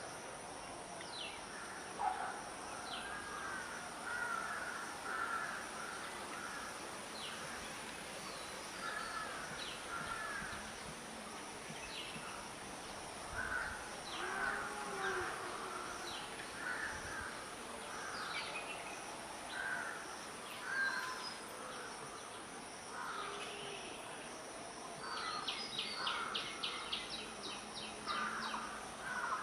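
Wild birds calling again and again in short, harsh notes, many in quick succession, over a steady high drone of insects. In the last few seconds a fast series of ticks comes in.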